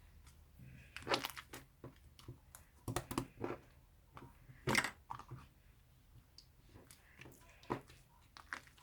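Slime being squeezed and pressed by hand, making irregular sticky clicks and crackling pops. The loudest come a little after one second, around three seconds and just before five seconds.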